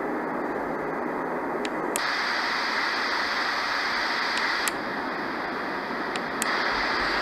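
Roffie N600 white-noise machine playing steady white noise through its speaker. The character of the hiss changes three times, each change marked by a short click, as the machine steps through its different white-noise sounds.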